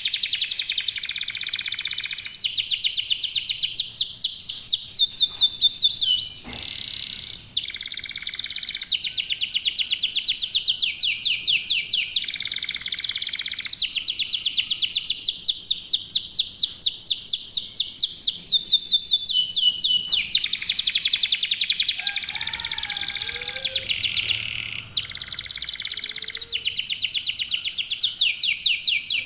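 Domestic canary singing continuously: fast, rapid-fire trills of repeated high notes, switching to a new phrase every second or two, with a brief break about six and a half seconds in.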